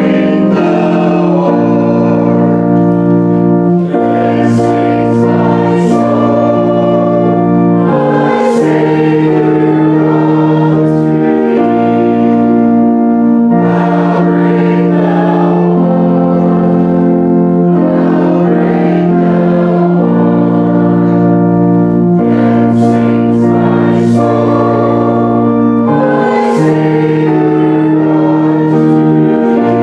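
Church music: an organ holding slow, sustained chords that change every second or two, with singing over it.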